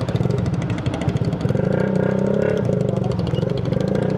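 Small motorcycle engine running under way, with rapid, even exhaust pulses.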